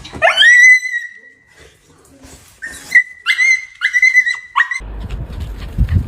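Shiba Inu whining in high-pitched cries: one long cry that rises and then holds, then a quick run of about four short cries. A low rumbling noise follows near the end.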